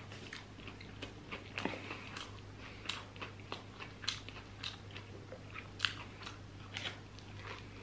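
A person chewing a mouthful of burger: soft, irregular mouth clicks and smacks, about three a second, over a low steady hum.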